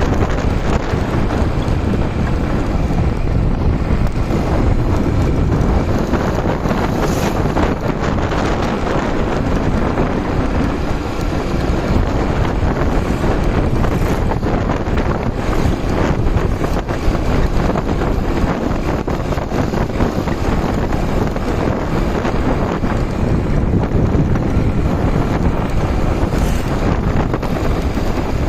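Wind buffeting the microphone of a moving motorcycle, a steady rush of noise with engine and road noise beneath it.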